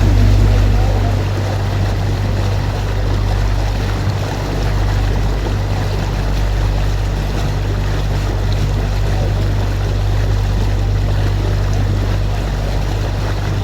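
Steady low hum of a canal tour boat's motor under way, with the wash of water and some wind noise.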